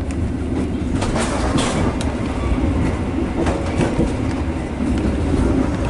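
KA Dhoho passenger train running along the track: a steady low rumble of the carriage with sharp clicks of the wheels passing over rail joints, several of them in the first four seconds.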